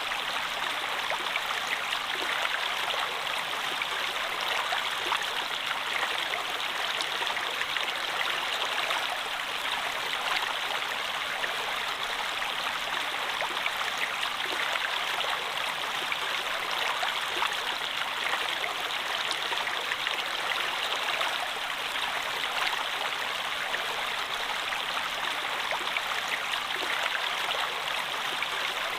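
Water flowing steadily, an even rushing with fine splashes throughout and no change in level.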